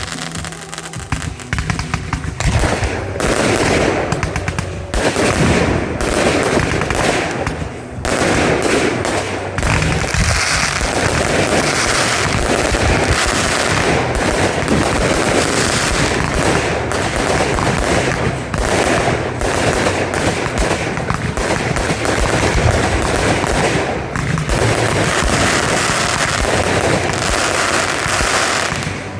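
Fireworks going off in a dense, almost continuous barrage of rapid bangs and crackles, like machine-gun fire, with short lulls now and then.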